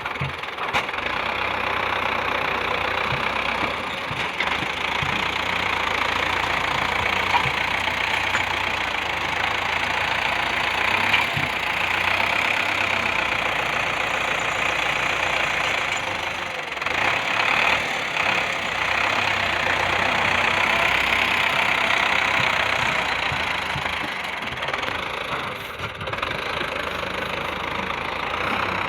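An engine-driven machine running steadily.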